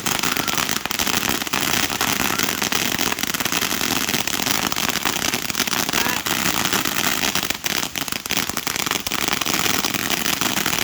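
Fireworks going off in a rapid, unbroken crackle of many small pops, like a string of firecrackers.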